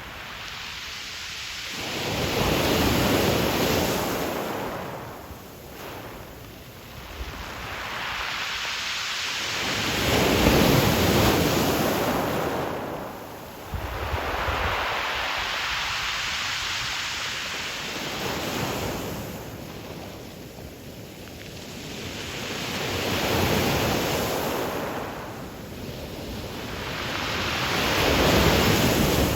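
Ocean waves breaking and washing up a pebble beach, surging and ebbing about five times, with a deep rumble under each surge.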